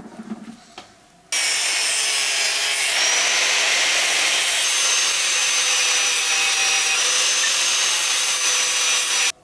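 Angle grinder grinding steel: a steady, loud abrasive hiss with a thin high whine that starts suddenly a little over a second in and cuts off abruptly near the end.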